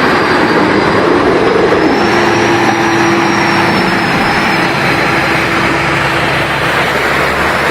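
Off-road truck engine running, a steady drone over a loud rushing noise, its pitch rising briefly just before two seconds in and then holding.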